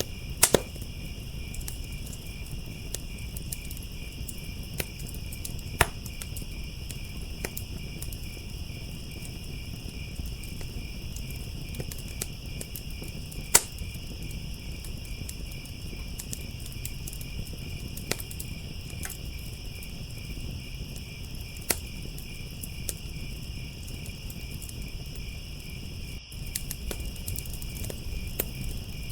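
Crackling wood fire giving sharp pops every few seconds, a few of them loud, over a steady, high chorus of crickets.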